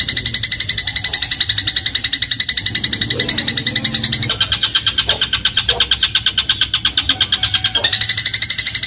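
Eurasian tree sparrow (burung gereja) giving a long, rapid, even rattle of high chirps without a break. The pitch steps down about four seconds in and steps back up near the end.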